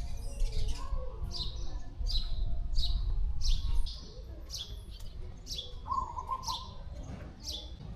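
A bird chirping over and over, short high falling notes about every two-thirds of a second, over a low rumble that drops away about halfway through.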